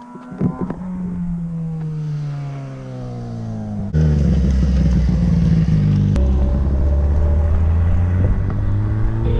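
Motorcycle engine running, its pitch falling slowly as it slows down. About four seconds in it becomes suddenly much louder, then climbs gradually in pitch as it accelerates.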